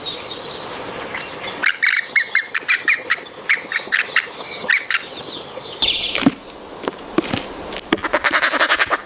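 Young woodpeckers calling to be fed: a run of short calls, several a second, then a faster, denser run of pulses near the end.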